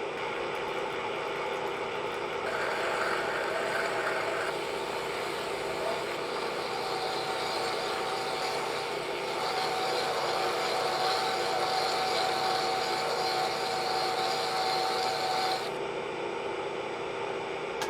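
Machine drilling through a forklift wheel rim at slow speed: the machine runs steadily, and about two seconds in the bit starts cutting, adding a grinding noise with a steady whine that stops near the end.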